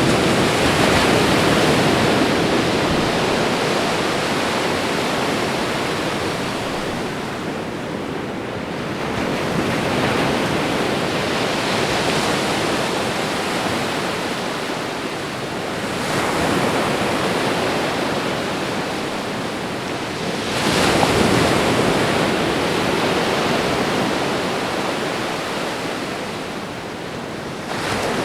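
Ocean waves breaking and washing up a shore: a continuous rush of surf that swells and ebbs as each wave comes in, roughly every five to nine seconds.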